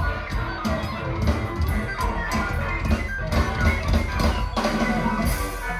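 Live rock band playing loud, with drums and guitar and no vocals.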